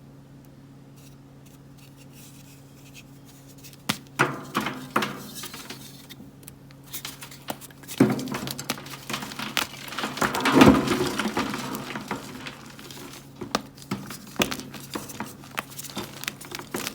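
Blocks of gym chalk being snapped and crushed by hand: sharp cracks about four seconds in and again near eight seconds, with crunching and crumbling between and after, loudest just past the middle.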